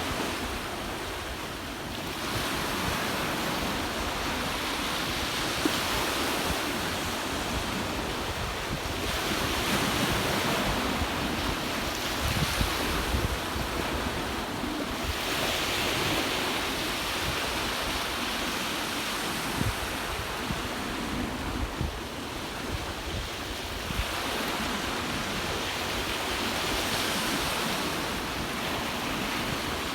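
Ocean waves washing onto the shore in a continuous rush that swells every few seconds as each wave breaks. Wind rumbles on the microphone underneath.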